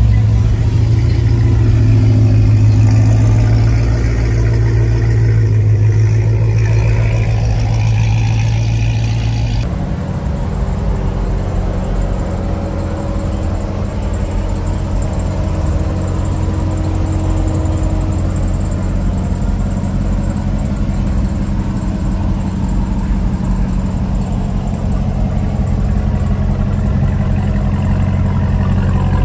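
Car engines running steadily at low speed, a low rumble. The sound changes abruptly about ten seconds in to another engine's steady rumble.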